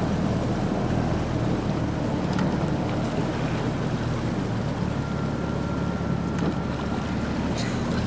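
Wind buffeting the microphone on the water, over a steady low motor hum, with a few faint ticks.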